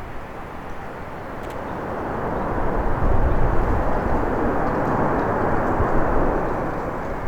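Jet engine noise of a landing Airbus A321 airliner. The rushing sound swells about two seconds in, stays loudest for a few seconds, then eases off.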